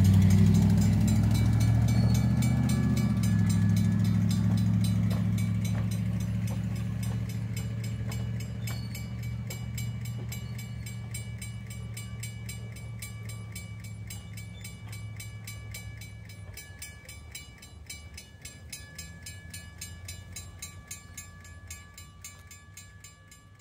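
Heritage train passing a road level crossing and moving away: a steady low rumble that fades throughout, while the crossing signal's bell keeps up an even, rapid ringing.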